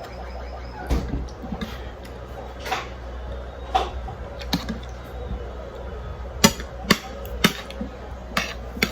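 Eating utensils clinking and tapping against dishes during a meal. The sharp knocks come one at a time, spaced out at first and closer together in the second half.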